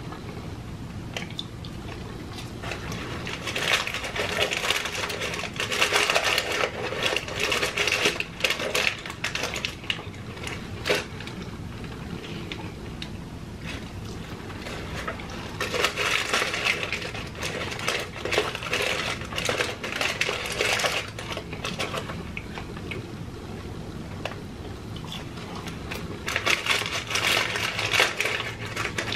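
Close-miked chewing of crunchy fried food: crisp, crackling bites in three bouts of several seconds each, quieter between them.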